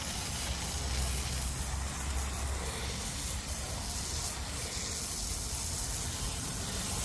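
Tru-Cut sawmill running, with a steady low engine drone under an even broad hiss.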